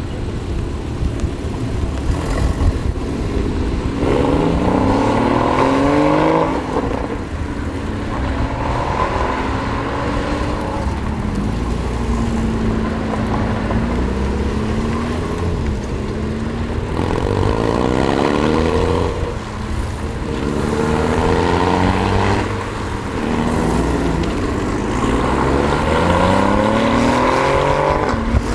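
Porsche sports cars, Boxsters among them, pulling away past one after another, each engine revving up with a rising pitch. About four cars go by, with a steady engine rumble between them.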